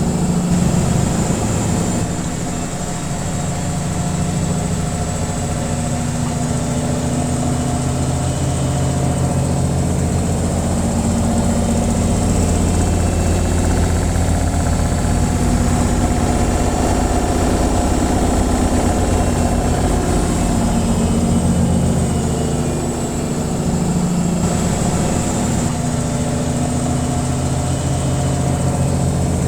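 Washing machine on its spin cycle: a steady low hum from the motor and spinning drum, dipping briefly twice.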